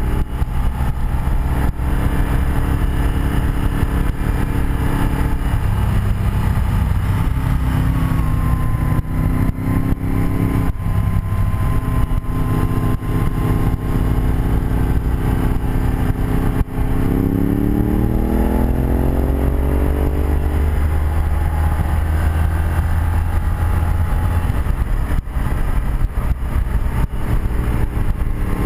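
A 1984 BMW R100RS air-cooled boxer-twin motorcycle engine heard from the rider's seat on the move, with wind rush. The engine note holds steady, then rises under acceleration about two-thirds of the way through before settling.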